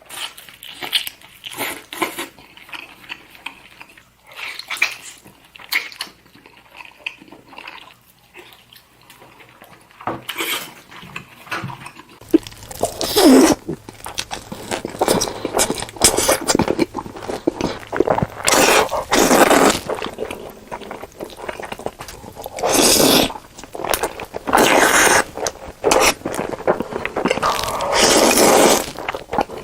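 Close-miked eating sounds: wet chewing and mouth noises, soft and clicky at first. From about halfway on come repeated louder wet bursts, each about a second long.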